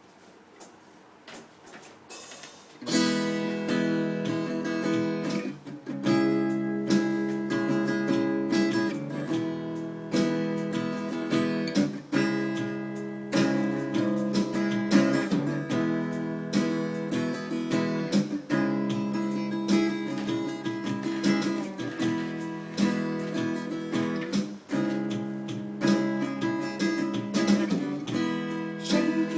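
Acoustic guitar strumming chords in a steady rhythm, starting about three seconds in after a few quiet seconds.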